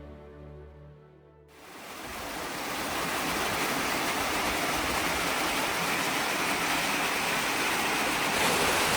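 Background music fading out and ending about a second and a half in. Then a steady, even rushing noise rises in and holds.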